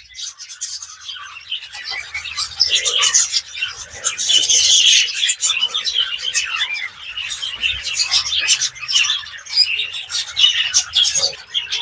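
A colony of budgerigars chattering: many rapid overlapping chirps, clicks and warbles, with no pause.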